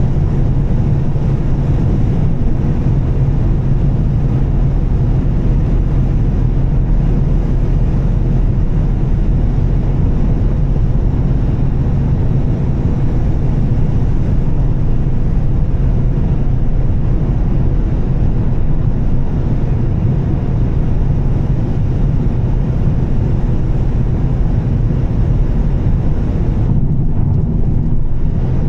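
2013 Volvo S60 T6's turbocharged straight-six with a Heico aftermarket exhaust, running steadily at cruise with tyre and road noise on a wet road. The high hiss dips briefly near the end, and the engine note shifts slightly.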